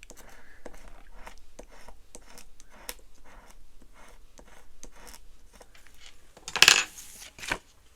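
Hands handling paper cash and challenge sheets: light clicks and soft rustling, then a louder paper swish near the end, with a second smaller one just after.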